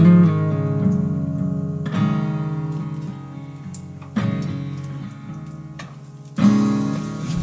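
Background music: an acoustic guitar strumming chords about every two seconds, each chord left to ring and fade.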